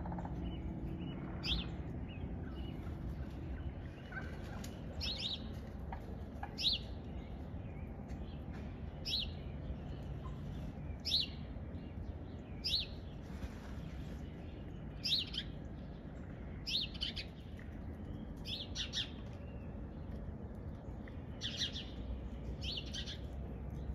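A bird calling with short, sharp, high chirps, repeated about every one to two seconds, over a steady low background rumble.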